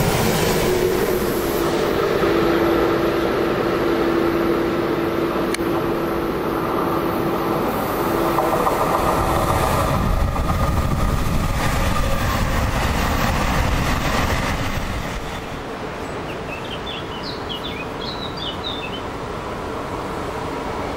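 Trains passing close by on an electrified line. First a freight train carrying lorries rolls past, its wheels rumbling and clattering on the rails with a steady tone held for several seconds. Then an electric multiple unit rushes through. Later the rail noise falls away to a lower rumble and birds chirp.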